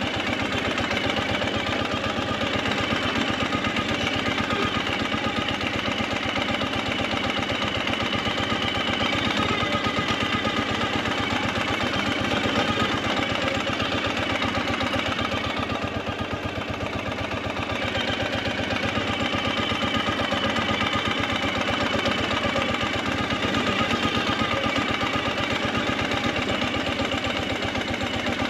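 Motorcycle engine running steadily under way, its firing pulses fast and even, with a slight dip in level about two-thirds of the way through.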